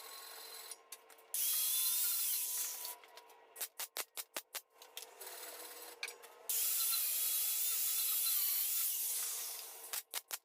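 Welding on a diesel fuel tank, daubing weld around a hole: short runs of rapid ticking alternate with two longer passes of steady hissing with a faint wavering whistle.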